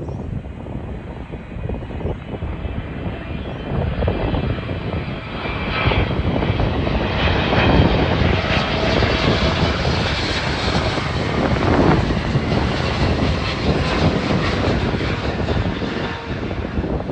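Jet airliner's engines passing close by, a loud rushing roar that swells for several seconds, peaks, then starts to ease off.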